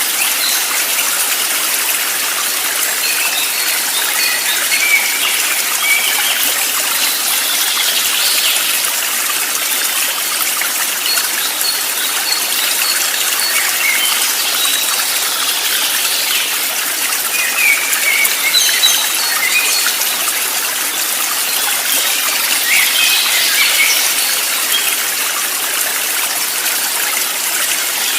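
A stream flowing steadily, with birds chirping now and then over it in short high notes.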